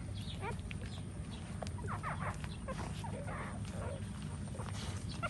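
Newborn puppies squeaking and whimpering in many short, overlapping high squeaks, over a steady low hum.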